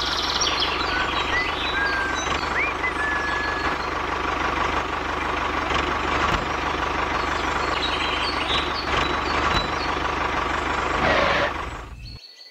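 An engine running steadily, like a tractor, with birds chirping now and then; it fades out just before the end.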